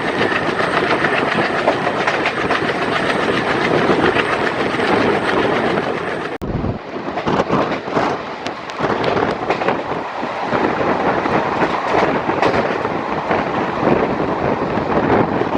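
Twin WDG-3A ALCo diesel locomotives (V16 ALCo 251 engines) chugging under power, heard from the coach just behind them, with the coach's wheels clattering over the rail joints. The sound changes abruptly about six seconds in, where one recording cuts to another.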